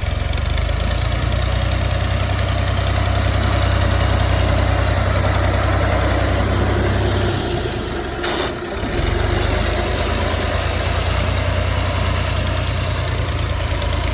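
Tractor diesel engine running steadily with a heavy low rumble. About eight seconds in it dips briefly with a single knock, then picks up again.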